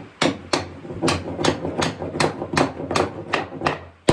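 Hammer blows on oak chair parts, about a dozen quick strikes at roughly three a second, knocking the joints of a small rocking chair together.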